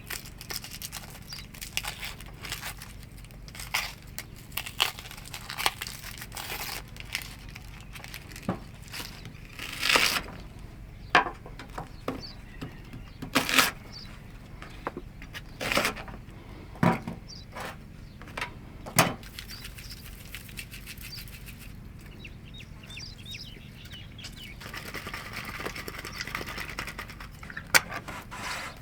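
Scattered knocks, clicks and rustles of objects being handled, over a low steady hum. A hissing noise starts about three-quarters of the way in and runs for a few seconds.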